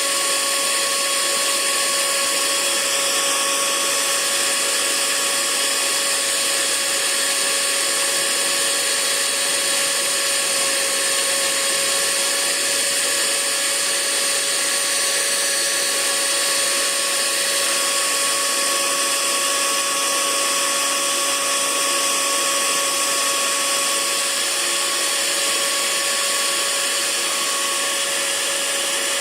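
Hair dryer running steadily: a constant rush of air with a steady motor whine, unchanging throughout.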